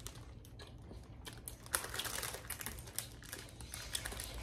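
Faint, irregular clicks and crackles of eating up close: chewing bites of soft iced cake, with light rustling of its paper wrapper. The clicking gets busier a little under two seconds in.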